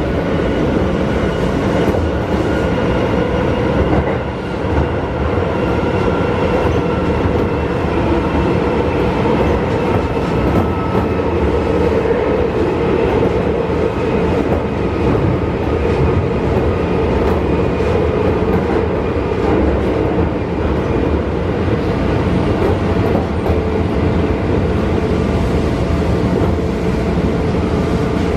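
Keisei 3400 series electric train running through a subway tunnel, heard inside the car: a steady rumble of wheels on rail, with the faint whine of its field-chopper-controlled traction motors and gears.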